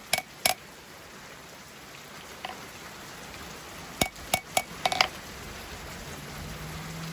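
Blacksmith's hammer striking the forged knife blade on the anvil to straighten it: two ringing blows at the start, then after a pause a quick run of about five blows about four seconds in. A steady hiss of rain runs underneath.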